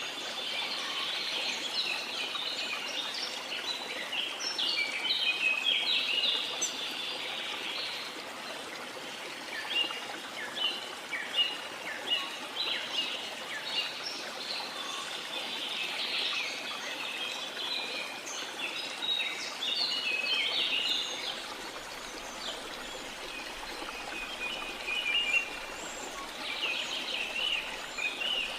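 Many small birds chirping and twittering in quick, overlapping bursts over a steady wash of water.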